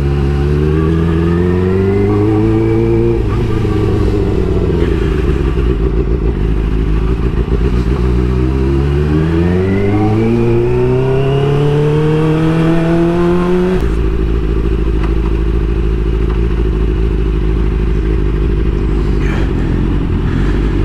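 Suzuki GSX-R600 inline-four engine accelerating, its pitch rising twice. About two-thirds of the way through the engine note drops away suddenly, leaving a steady low rush of wind noise on the microphone.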